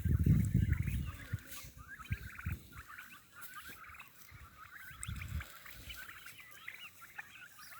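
A flock of young turkeys, about 65 days old, peeping and chirping with many short high calls that go on throughout. A few low rumbles sound under them, loudest in the first second and again about five seconds in.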